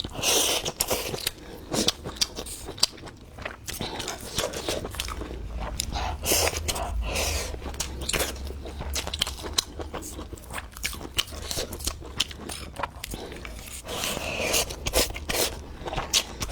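Close-miked chewing of crunchy pickled radish strips, with many sharp crunches and bites in an uneven rhythm.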